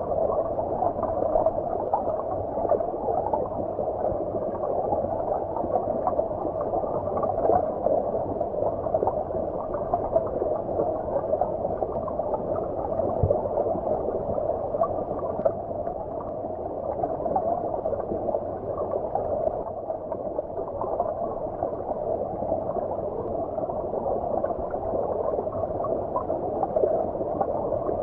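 Shallow stream water flowing and gurgling, heard from underwater: a steady, muffled rushing with the high sounds cut away.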